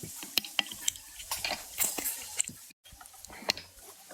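Giant panda chewing bamboo shoots: an irregular run of sharp crunches and cracks, with a brief dropout in the sound a little under three seconds in.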